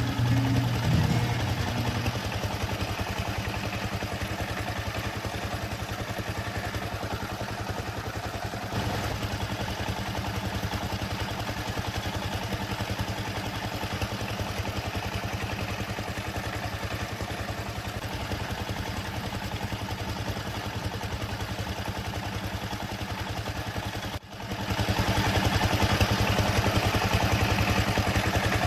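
Small engine of a miniature model tractor running steadily with a fast, even beat. About 24 seconds in it breaks off for a moment, then comes back louder.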